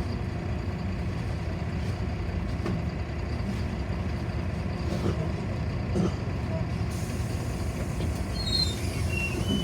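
Interior of a moving city bus: steady engine and road rumble with a few light rattles and knocks. Near the end come short high squeaks, like brakes squealing.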